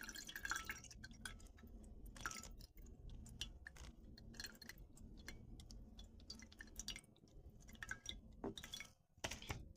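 Tamarind pulp being wrung through cheesecloth: faint, irregular wet squishing and juice dripping into the bowl below.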